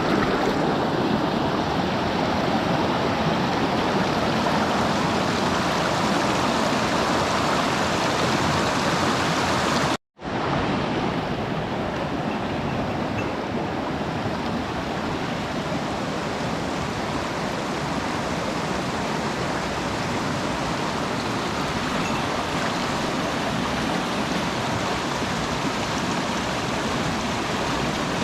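Mountain stream water rushing steadily over rocks, a dense even hiss. The sound cuts out for an instant about ten seconds in and resumes slightly quieter.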